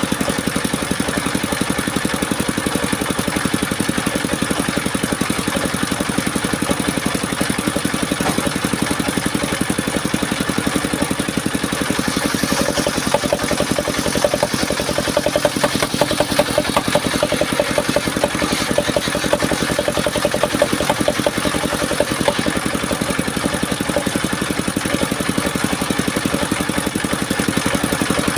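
Engine of a portable circular sawmill running steadily with a fast even pulse. About halfway through, a higher-pitched sound joins it.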